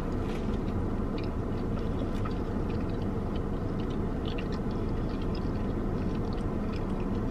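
A person chewing a mouthful of crispy Texas toast, with small crunching clicks scattered through, over a steady low background noise.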